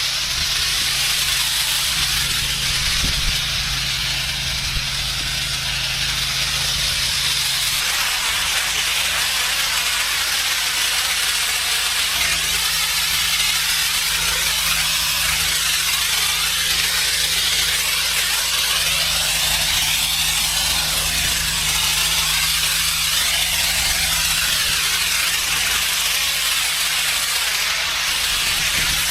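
Gas pressure washer at work: the steady hiss of high-pressure water spraying onto pavement over the low hum of its engine. The hum changes note about eight seconds in.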